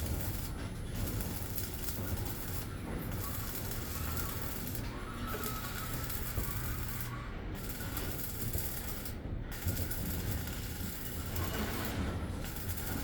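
Steady mechanical noise from machinery.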